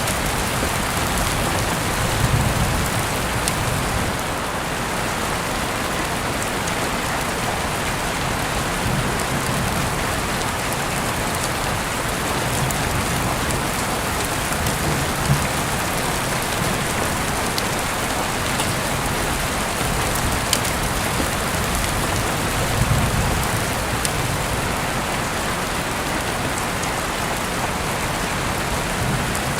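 Heavy rain falling steadily, a dense even hiss with scattered sharp drips and patters, heard through an open window. A few soft low rumbles swell and fade now and then.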